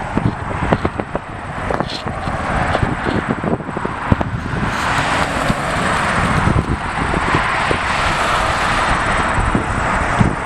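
Jet airliner engines at an airport, their noise building over the second half into a loud, steady rush, over an uneven low rumble.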